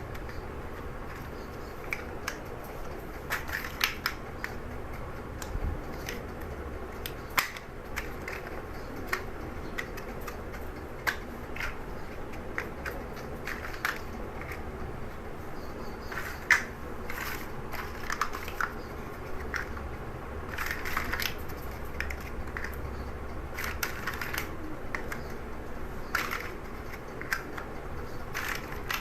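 Plastic Lego bricks being handled and snapped together: irregular small clicks and rattles, some sharper than others, over a low steady hum.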